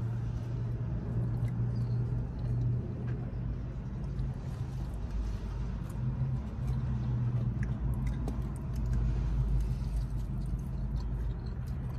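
Steady low hum and rumble of a car's idling engine, heard from inside the cabin, with a few faint small clicks.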